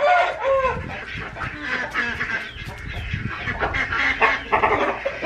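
Chickens clucking and squawking, several pitched calls overlapping, with a loud harsh call near the end.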